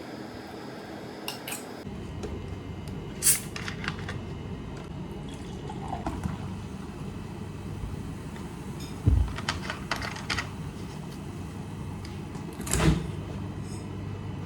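Dishes and utensils clinking and knocking a few times over a steady low hum that sets in about two seconds in.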